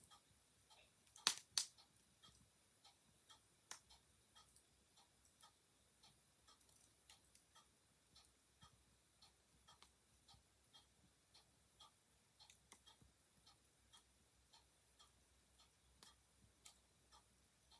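A clock ticking steadily, about two ticks a second, with a wood fire crackling softly. Two loud sharp pops from the fire come about a second and a half in.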